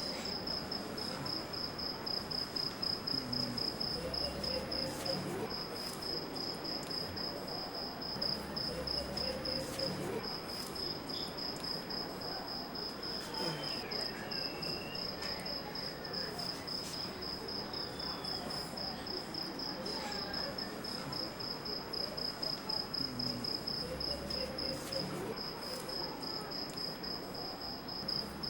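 Crickets chirping: a steady, rapid high-pitched pulsing trill, broken by a few short gaps, over a faint low background murmur.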